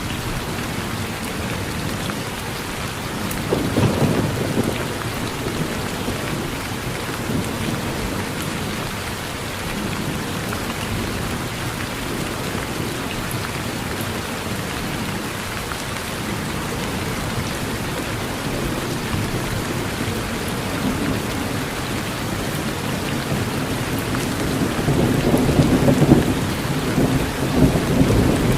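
Steady rain falling on a porch, with thunder rumbling about four seconds in and a longer, louder rumble building near the end.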